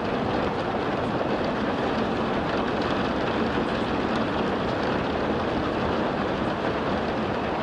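Steady rushing water sound: an even, unbroken wash of noise that does not rise or fall.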